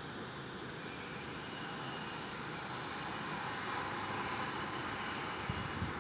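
Steady rushing noise of an apartment area in Seoul, growing a little louder in the second half, with a couple of brief low knocks near the end.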